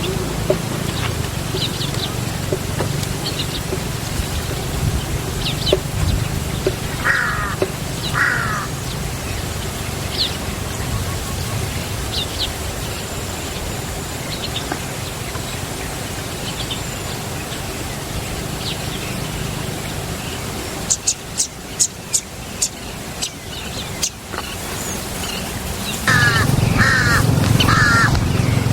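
Birds calling: short harsh calls twice about seven and eight seconds in and three more near the end, with scattered higher chirps, over a steady low hum. A quick run of sharp clicks a little after twenty seconds.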